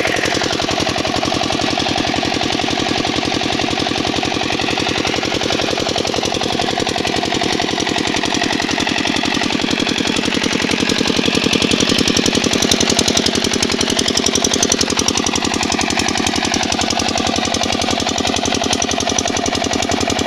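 Kirloskar 8 hp single-cylinder diesel engine running steadily while driving a water pump, with a loud, rapid and even knocking beat.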